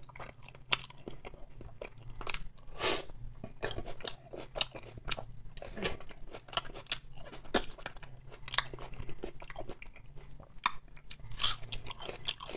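A person chewing and biting food close to the microphone: irregular wet mouth clicks and smacks throughout.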